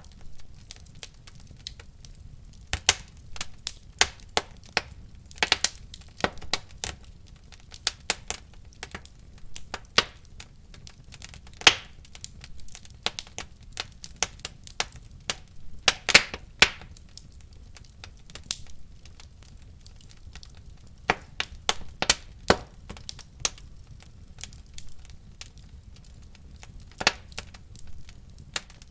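Wood fire burning in a fireplace, crackling with irregular sharp pops and snaps over a faint low rumble of the flames.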